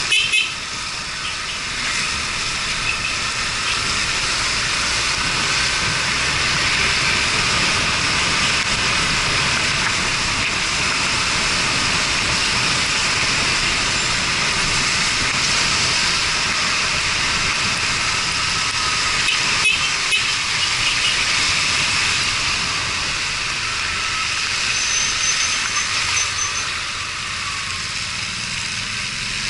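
Yamaha Fazer 250 single-cylinder motorcycle riding on a wet road in the rain: a steady hiss of wind and tyre spray over the engine running. There is a short knock at the very start and a click about twenty seconds in.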